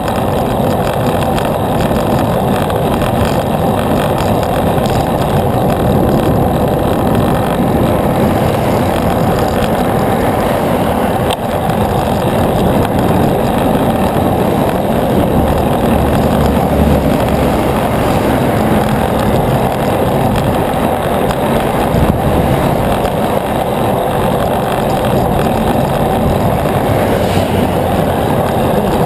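Steady rushing wind and road noise on the camera's microphone during a bicycle ride, with no marked change throughout.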